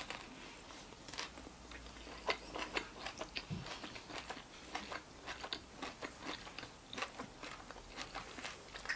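A person chewing a big bite of a sub sandwich on seeded bread, with irregular soft crunches and wet mouth clicks.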